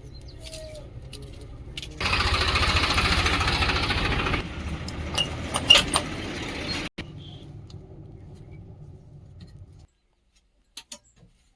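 Diesel engine of heavy machinery running. It rises to a loud, harder-working run for a couple of seconds, then drops back to a quieter run that cuts off suddenly near the end.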